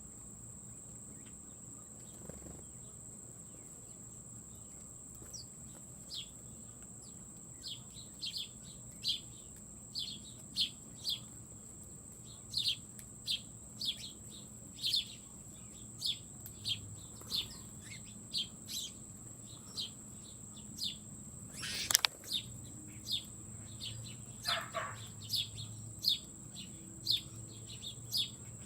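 A small bird chirping at a feeder: short, sharp chirps, sparse at first, then coming about one or two a second, over a steady high-pitched whine. A single sharp click about three quarters of the way through is the loudest sound.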